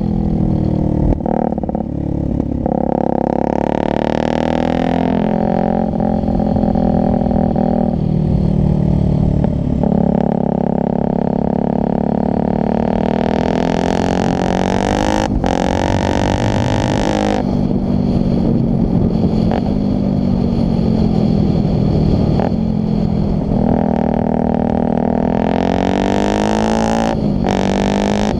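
Yamaha motorcycle engine heard from the rider's helmet, running under load around a track. It revs up three times with brief breaks in the sound as it changes gear, and drops back between the surges. Wind rushes on the microphone throughout.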